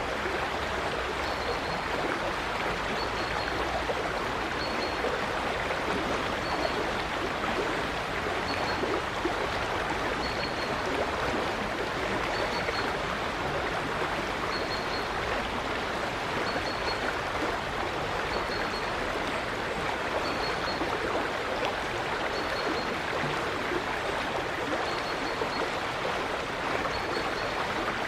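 River water flowing steadily, an even rushing sound. A small bird repeats a short, high chirp about every two seconds over it.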